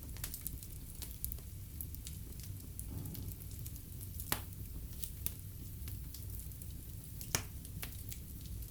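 Fire burning in a fireplace: a steady low rumble with scattered crackles, and two sharper pops about four and seven seconds in.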